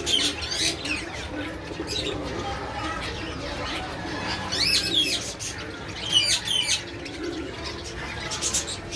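Caged birds calling: short, clear rising-and-falling chirps come in clusters every second or two, over a steady background of lower calls.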